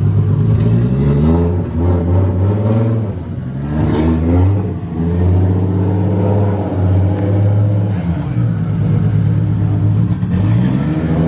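Toyota 2JZ inline-six in a Nissan 240SX running, revved up and let fall back several times, with the biggest rev about four seconds in and another near the end.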